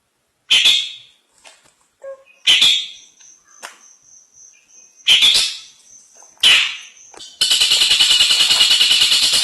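Cendet (long-tailed shrike) singing: four short, harsh calls about two seconds apart, with a thin high whistle held between the later ones. Near the end it breaks into a loud, continuous, rapid chatter.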